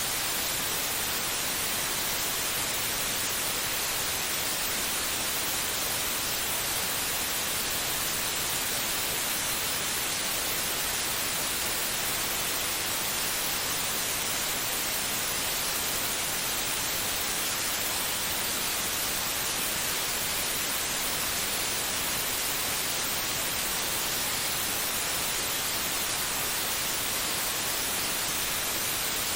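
Steady white noise: an even, unbroken hiss with no rhythm or change, played to soothe a baby to sleep.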